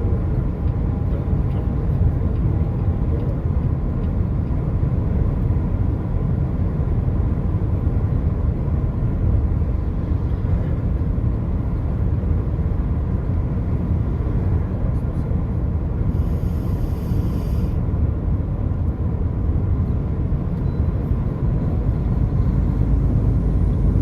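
Steady low rumble of a car travelling along the highway: road and engine noise, with a brief faint high-pitched sound about two-thirds of the way through.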